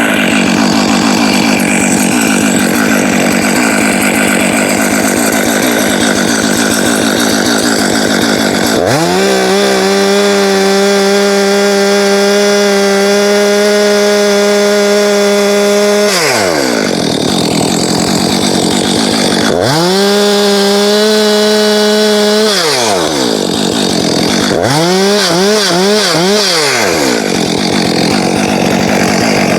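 Two-stroke chainsaw cutting into a hackberry trunk, the engine pulled down by the cut. About nine seconds in it runs free at full throttle, a steady high whine for several seconds, then cuts again. It runs free once more, blips the throttle three times, and goes back into the cut.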